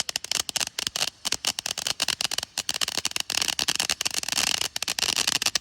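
Ground firework crackling: a rapid, irregular stream of sharp little pops and crackles.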